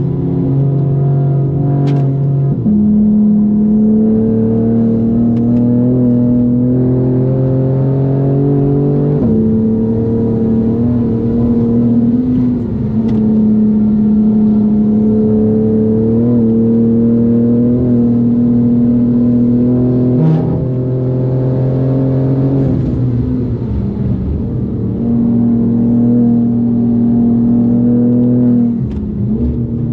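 BMW M4 G82's twin-turbo inline-six under hard driving, tuned to about 630 wheel horsepower. Its engine note holds fairly steady, then jumps sharply in pitch several times as gears change.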